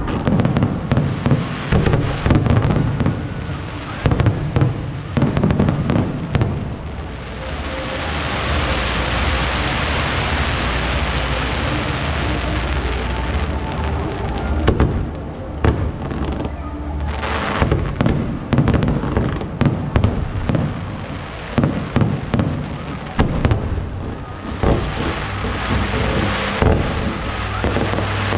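Aerial fireworks shells bursting in rapid volleys of booms and crackles, with a long stretch of dense hissing crackle in the middle and another near the end.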